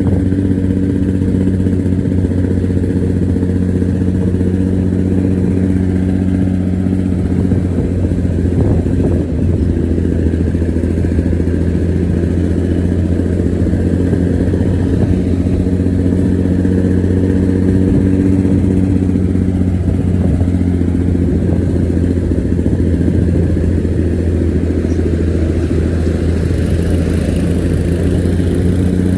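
Diesel bus engine running steadily with a deep, growling exhaust note that holds an even pitch, with no revving.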